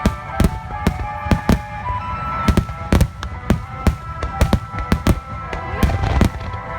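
Aerial fireworks shells bursting in rapid succession, loud sharp bangs about two or three a second, with music playing underneath.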